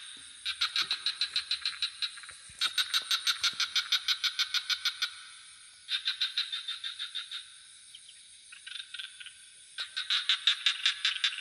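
Frogs calling in bouts of rapid pulsed trills, about ten pulses a second, each bout lasting a second or two to a few seconds with short pauses between; a fainter bout comes near two thirds of the way through. A steady high hiss runs underneath.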